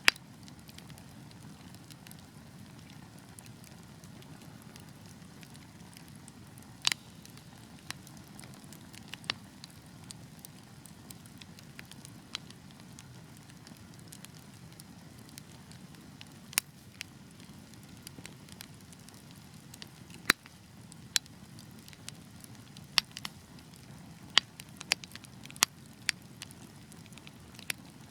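Wood fire burning with a steady low rush of flame and irregular sharp crackles and pops, which come more often toward the end.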